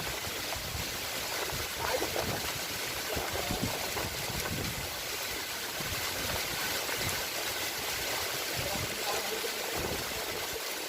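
Steady hiss of running water, as in a rain-fed stream or runoff.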